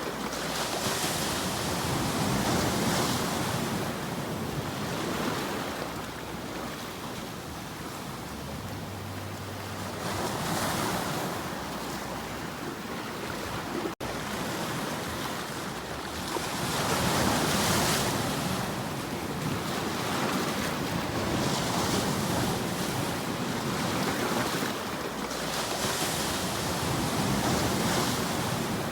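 Ocean waves washing in and drawing back, a steady hiss of surf that swells and fades every few seconds.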